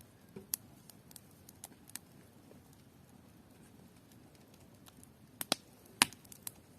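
Bonfire crackling: irregular sharp pops and snaps over a faint low hiss, with the two loudest pops coming close together near the end.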